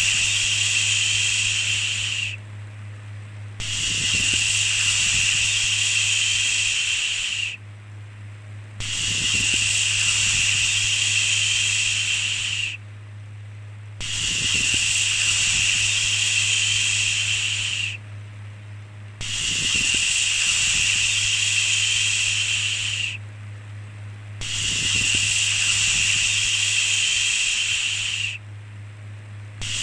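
A long 'shhh' shushing sound, repeated about every five seconds: each shush lasts about four seconds, with a pause of about a second between them. A steady low hum runs underneath.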